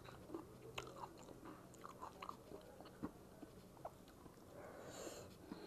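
Faint close-up chewing and wet mouth clicks of a person eating dhido by hand, with a short hiss about five seconds in.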